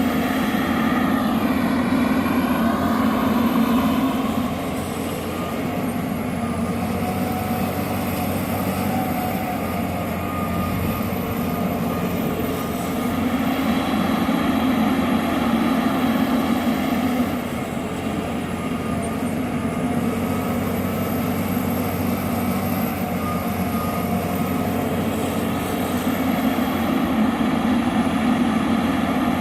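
John Deere 350G LC hydraulic excavator's diesel engine running steadily, swelling and easing every several seconds as the hydraulics take load and let off through the working cycle.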